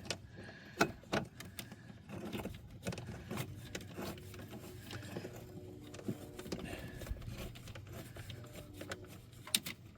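Light metallic clicks and taps, irregular and faint: a rusty bolt being started and turned in by hand, with small hand-tool and part handling.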